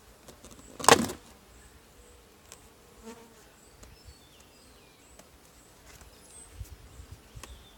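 Honeybees buzzing around an open hive, a faint steady hum, with one loud short knock about a second in.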